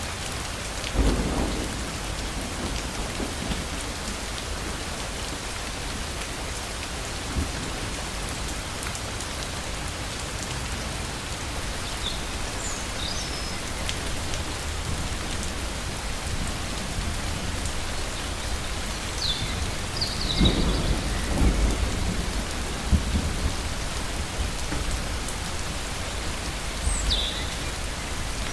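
Torrential rain falling steadily, with thunder: a short rumble about a second in and a longer rolling rumble about twenty seconds in, the loudest part. A few short high chirps sound over the rain.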